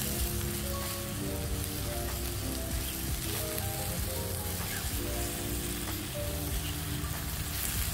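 Sliced king oyster mushrooms sizzling steadily as they sauté in butter in a frying pan, with background music playing over it.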